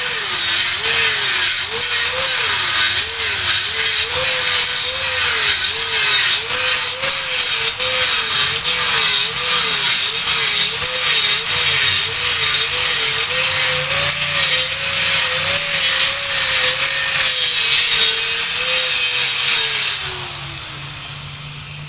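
Electric power tool working metal. Its motor whine wavers again and again as the tool loads and eases off. About twenty seconds in it is switched off and the whine winds down.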